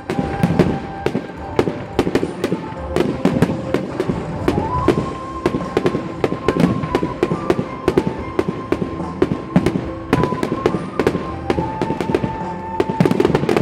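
Aerial firework shells bursting in quick succession, a dense run of sharp bangs and crackles several times a second, over music with long held notes.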